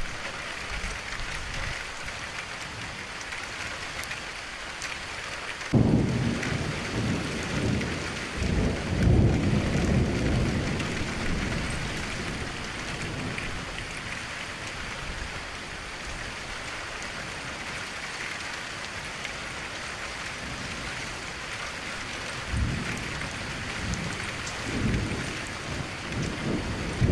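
Steady rain with low rolls of thunder, the first breaking in suddenly about six seconds in, another a few seconds later and more near the end.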